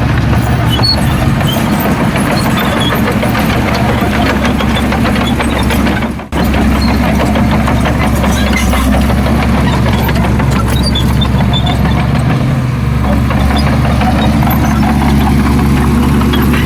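Heavy diesel engine of earthmoving machinery running steadily, with the sound cutting out for a moment about six seconds in.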